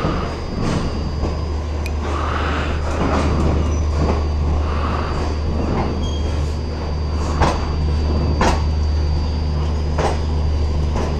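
Indian Railways passenger train rolling past: a steady low rumble, with a few sharp clacks of the wheels in the second half.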